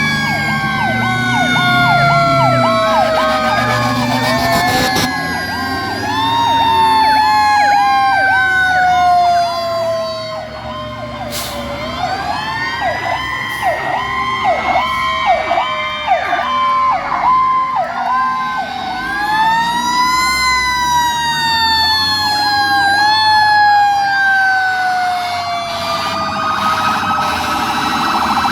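Several fire truck sirens sounding at once: long wails that rise and then slowly fall over several seconds, overlapped by rapid warbling yelps.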